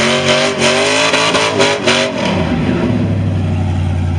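Truck engine revving hard at high, wavering revs, then dropping back to a steady low idle about two seconds in.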